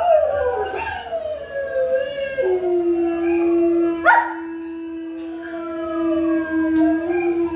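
Dog howling, several long howls overlapping: one falls in pitch at the start, and a low one is held steady from about two and a half seconds in.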